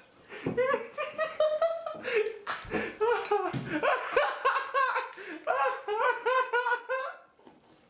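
A person laughing hard in long, rapid fits that die away near the end.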